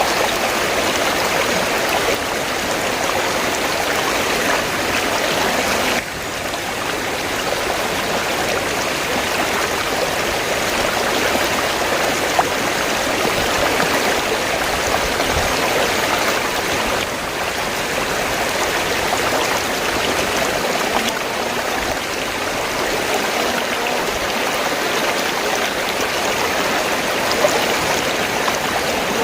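River water flowing steadily, a continuous even wash of water noise, dipping slightly in level about six seconds in.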